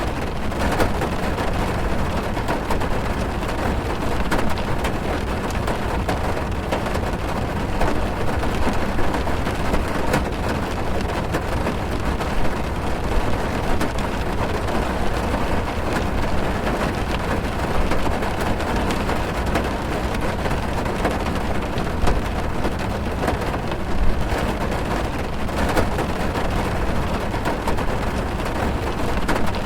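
Heavy rain drumming on a car's roof and windows, heard from inside the cabin: a dense steady patter of drops with a low rumble beneath.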